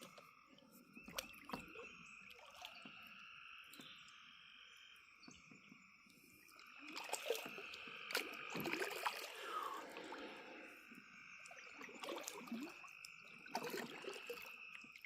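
Faint chorus of frogs calling steadily along the creek, with scattered light clicks and knocks.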